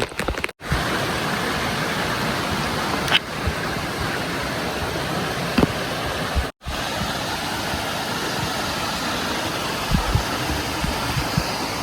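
Steady rush of flowing water from a stream or waterfall, broken twice by brief dropouts.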